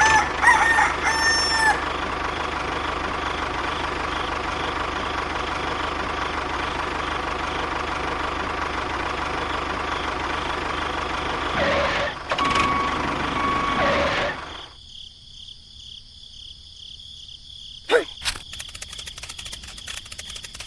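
A rooster crowing near the start and again about twelve seconds in, over a steady hum that stops about fourteen seconds in. Rapid clicking with a thin high tone follows near the end.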